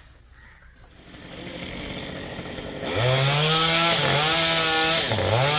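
Stihl two-stroke chainsaw revving up to high speed about three seconds in and running hard, its pitch dipping briefly twice.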